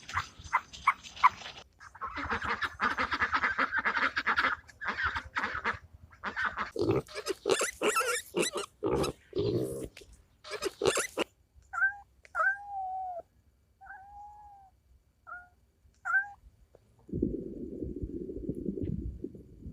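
A run of different domestic animal sounds one after another: noisy calls and scuffling in the first half, then five short pitched calls, and a low steady noise near the end.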